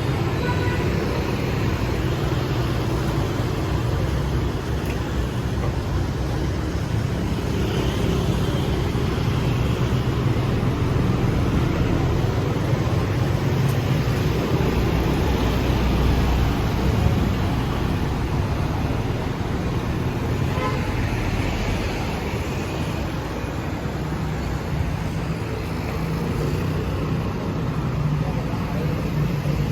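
Road traffic passing steadily on a city street, a continuous wash of engine and tyre noise.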